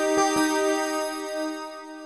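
Electronic announcement chime in a keyboard-like tone: a short run of notes early on that then ring together and slowly fade, the attention signal that opens a public-transport passenger announcement.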